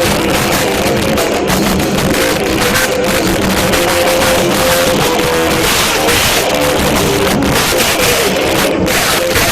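A live rock band playing loud distorted electric guitar over a drum kit, recorded so loud that the sound is overloaded and screwed up.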